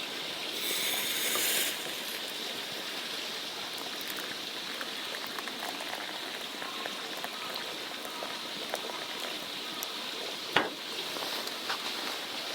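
Water steadily boiling in a pot or kettle, heated to make coffee, with one sharp click about ten seconds in.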